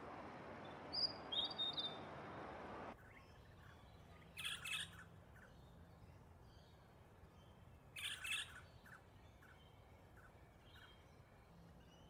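Small birds chirping over the steady rush of a shallow stream; the water sound stops abruptly about three seconds in, and short bursts of chirping follow about four and eight seconds in.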